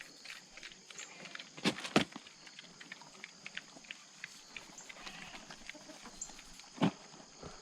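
Barnyard livestock sounds with many small scattered clicks, and a few sharp knocks: two in quick succession about two seconds in, one more near the end.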